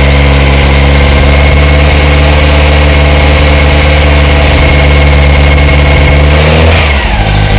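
Freshly rebuilt VW engine running steadily on its first run-in, loud and even; about six and a half seconds in, the revs start to change.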